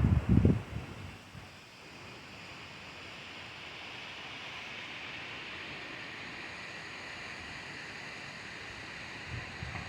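Storm wind blowing steadily, a rushing hiss like wind through trees. Low booming of wind buffeting the microphone dies away about a second in and starts to return near the end.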